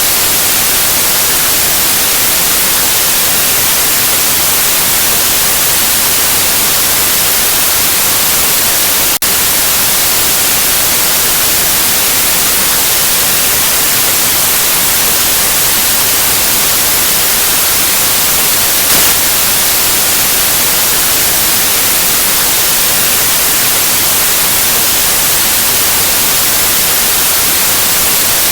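Steady white noise: an even, loud hiss, strongest in the highs, with a brief dropout about nine seconds in.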